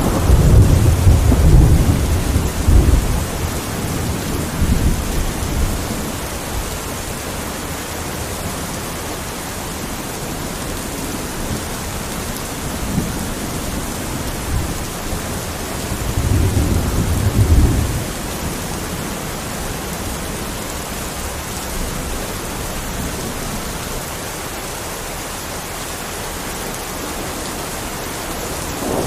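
Steady rain with rolling thunder: a deep rumble at the start that fades over several seconds, and another about sixteen seconds in.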